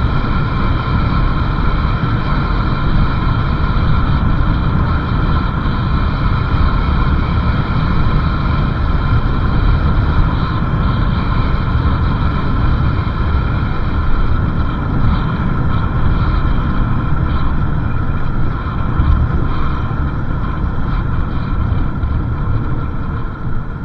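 Motorcycle riding along the road: the engine drones steadily under a heavy rush of wind on the microphone.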